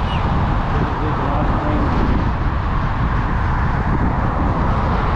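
Steady rushing noise of an e-bike on the move: wind buffeting the microphone over tyres rolling on the track, heavy in the low end and unchanging throughout.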